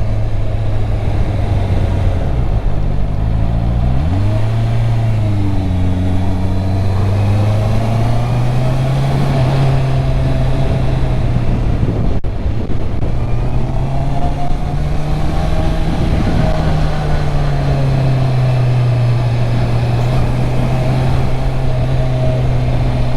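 Stock Honda CB650R inline-four engine running under way, its revs dropping about two seconds in and climbing again near four seconds, then holding fairly steady with gentle rises and falls, over a rush of wind and road noise.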